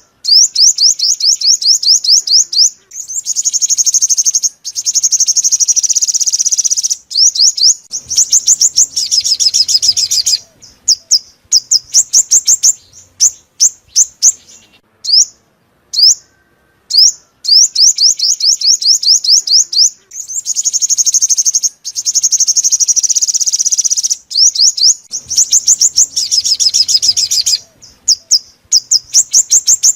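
Sunbird song: rapid runs of thin, high sweeping notes and fast trills, in bursts broken by short pauses. It is played as a trapping lure, and the same sequence of phrases repeats about halfway through.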